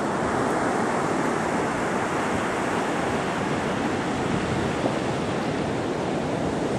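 Ocean surf and wind, a steady rushing noise with no bird calls standing out.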